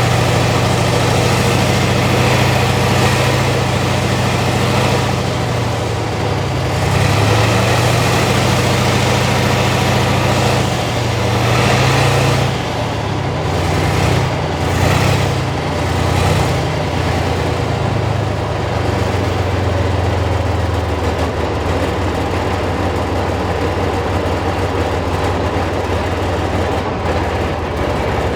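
T-72M1 tank's V12 diesel engine running at idle, revved briefly several times about halfway through, then settling back to a steady, lower idle.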